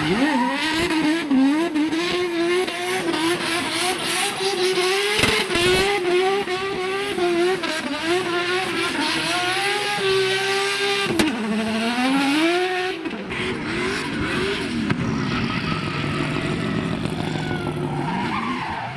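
Performance car engine revving hard with its pitch wavering up and down as the tyres squeal and slide in a drift. About thirteen seconds in the revs fall away and settle lower and steadier.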